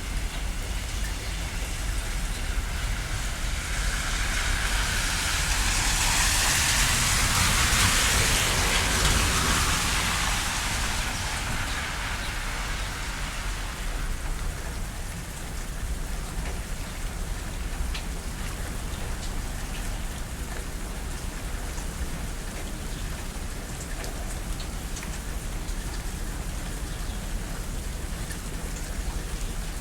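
Steady rain falling and pattering on surfaces, an even hiss. A few seconds in the hiss swells louder and brighter for several seconds, then settles back.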